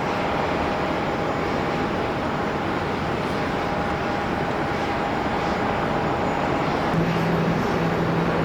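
Jet airliner engine noise: a steady, loud rushing with a faint high tone over it. About seven seconds in the high tone stops and a lower steady hum comes in.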